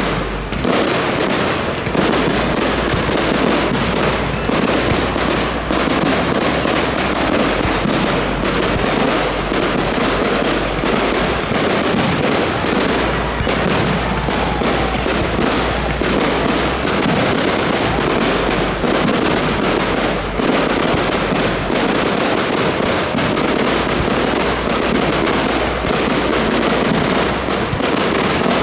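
Aerial fireworks going off in a dense, unbroken barrage of bangs and crackling, with no pauses between bursts.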